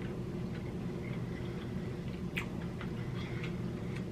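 Close-miked chewing: soft mouth clicks and smacks while eating king crab meat, with a sharper click a little over halfway through, over a steady low background hum.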